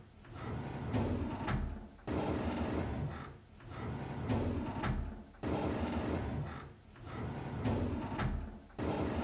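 A wooden drawer sliding on its runners again and again, each slide a rumbling scrape of about a second and a half, some swelling in gradually and some starting abruptly, with short pauses between.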